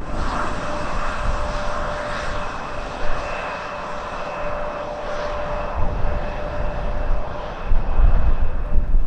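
A passenger airliner's engines running with a steady roar, with a held tone and a fainter higher whine over it. The low rumble swells near the end.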